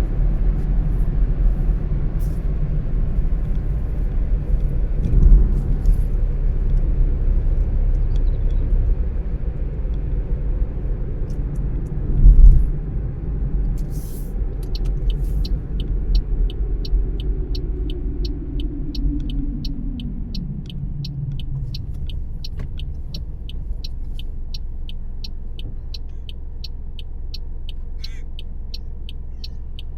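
Car driving with steady road and engine noise, with two thumps along the way; then the car slows to a near stop, its pitch falling, while the turn-signal indicator ticks evenly at about two ticks a second.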